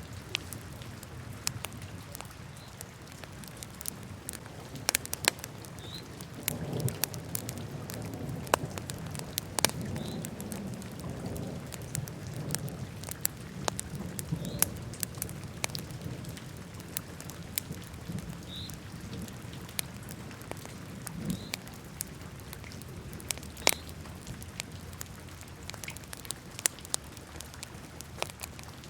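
Wood fire burning in a fireplace, crackling with irregular sharp pops, a few of them loud, over a low steady rush of flame that swells for several seconds near the start.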